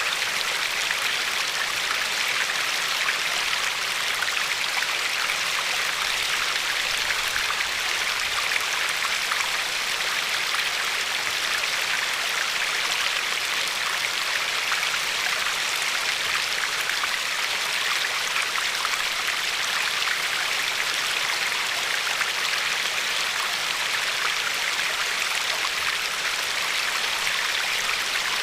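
River water flowing and lapping over a pebble shore: a steady, even rushing hiss with fine splashing detail.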